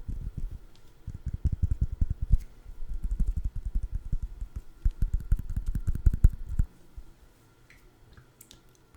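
Rapid, dull tapping on a food item close to the microphone, fast irregular strokes that stop about two-thirds of the way through. A few faint clicks follow.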